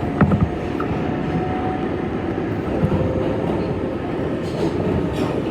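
New York City Subway R142A train pulling out of a station, rumbling steadily on the rails, with a few sharp clanks about a quarter of a second in.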